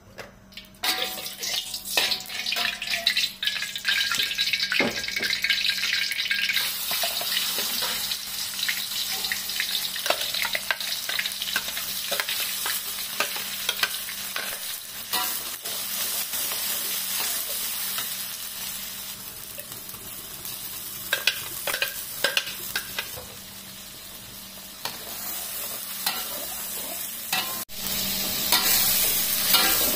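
Spice paste frying in hot oil in a wok, a sizzle that begins about a second in and keeps going, with a metal spatula scraping and knocking against the wok as the paste is stirred.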